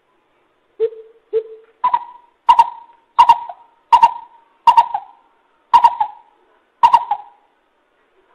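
Coucal calling: two low hoots, then a steady series of about seven louder, higher hoots roughly two-thirds of a second apart.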